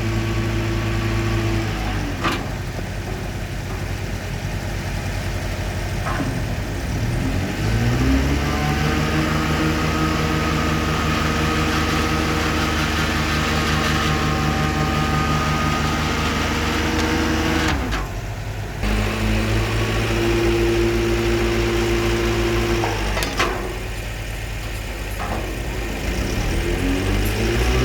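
The engine powering a hydraulic concrete pile-pressing rig runs steadily, slowing and speeding back up several times. A few sharp knocks sound over it.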